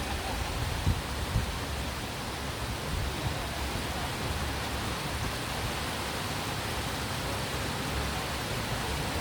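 Steady rushing of river water, an even noise with no break.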